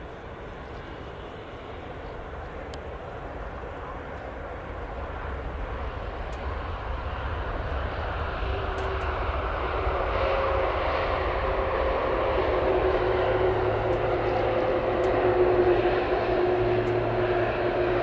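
Airliner's engines growing steadily louder as the aircraft approaches, a broad rushing roar with a steady engine whine coming in about halfway and strengthening toward the end.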